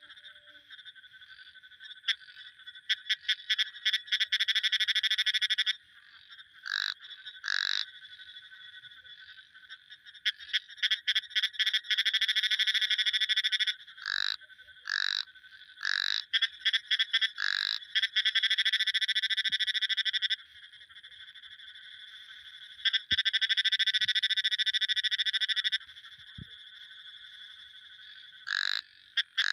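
Frogs calling: high-pitched rapid pulsed trills that each last a few seconds, alternating with short single calls and brief lulls.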